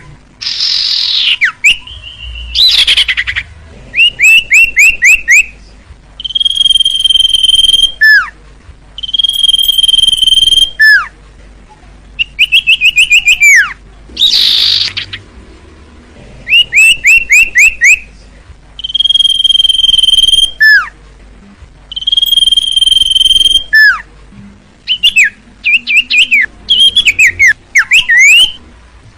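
Common iora (cipoh) singing a repeated song. Long steady whistles, each held about a second and a half and ending in a sharply falling note, alternate with quick runs of four or five short descending notes. A few harsh rasping calls come in the first few seconds and around the middle, and there is a burst of varied twittering near the end.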